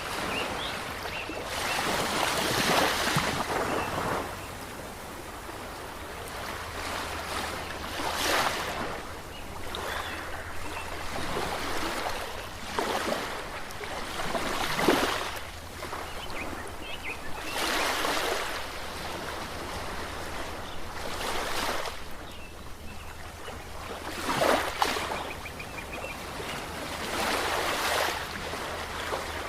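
Ocean waves breaking and washing up, a fresh surge of surf every three to four seconds over a steady wash of water.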